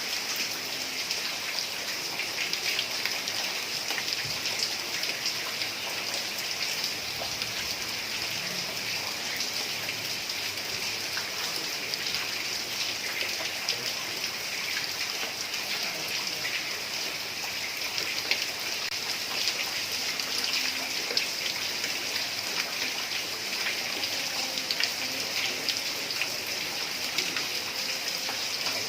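Heavy rain falling steadily on roof tiles: a dense even hiss thick with small drop impacts.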